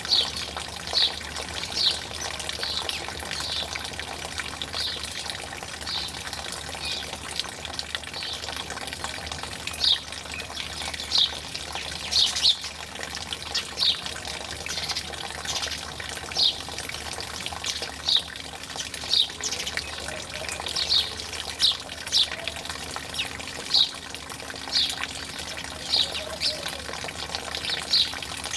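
Birds chirping, short sharp calls about once a second, over a steady rush of running water.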